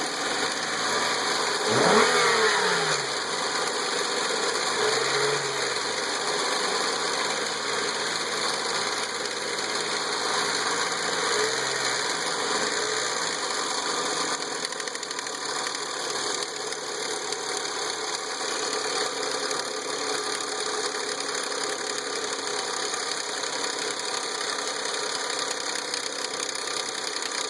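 Nissan VQ35DE 3.5-litre V6 running with a timing chain rattle. It is revved sharply once about two seconds in and lightly a few more times, then settles to a steady idle. The rattle began small and has suddenly got much worse, the sign of a failing timing chain at 114k miles.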